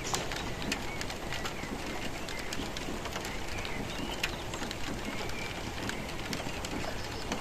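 Steady rain with sharp drips landing now and then, and birds calling through it.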